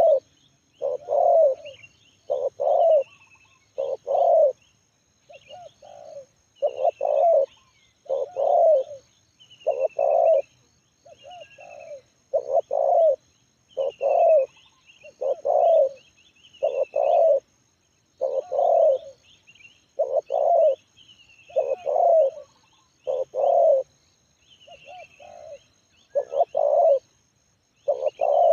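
Spotted dove (tekukur) cooing over and over, a steady run of low cooing notes about one a second, the bird's medium-pitched 'Kuk 1' voice. Faint high chirps of other small birds sound between the coos.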